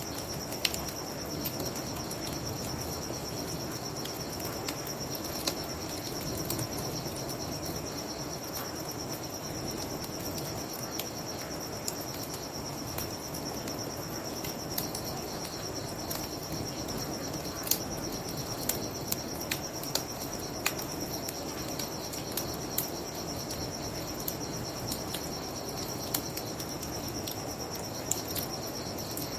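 Crickets chirping in a steady high trill over a low steady rush, with a bonfire crackling in sharp scattered pops, more of them in the second half.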